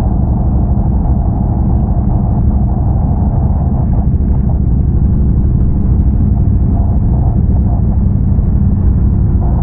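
Big-bore Can-Am Renegade ATV's V-twin engine running steadily under way, a loud continuous low drone without sharp revs or breaks.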